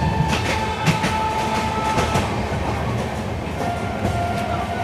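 Train running fast on the rails, heard at an open door: a steady rumble of wheels on track, with a quick run of sharp clacks in the first two seconds as the wheels pass over rail joints. A thin steady whine stops about two seconds in, and a lower one comes in near the end.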